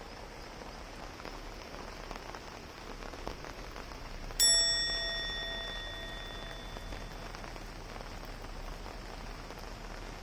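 Steady rain falling. About four seconds in, a single bell-like chime rings out and fades away over about two seconds.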